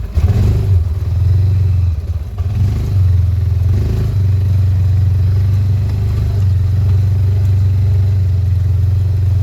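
T Boss 550 UTV engine running under way with a steady low drone. It eases off briefly about two seconds in, then pulls again.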